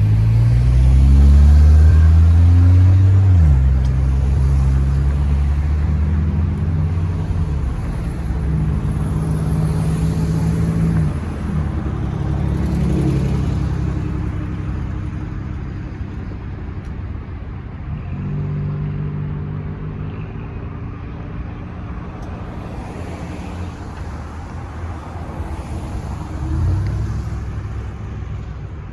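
Freight train passing, with the drone of GE diesel-electric locomotive engines rising in pitch over the first few seconds and then holding steady over a constant rumble of wheels on rail. A second engine drone comes in about two-thirds of the way through, and the sound slowly fades toward the end.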